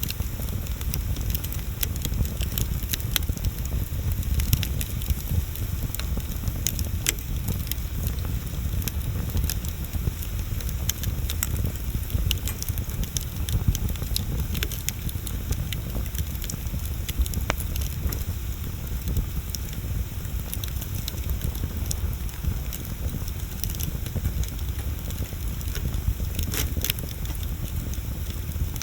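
Wood bonfire burning, with frequent sharp crackles and pops of the burning wood over a steady low rumble.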